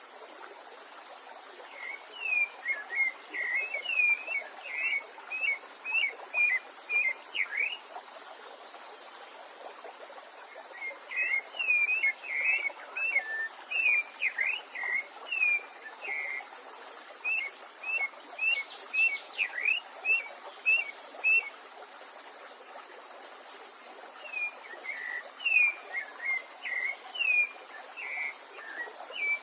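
A songbird singing three long phrases of quick, short whistled notes, with gaps of a few seconds between phrases, over a steady background hiss.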